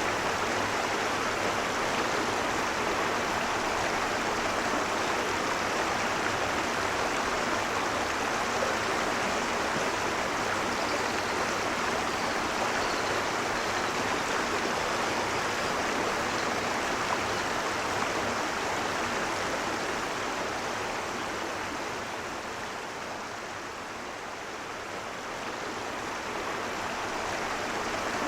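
A river flowing: a steady, even rush of running water. It softens a little about three-quarters of the way through, then comes back up.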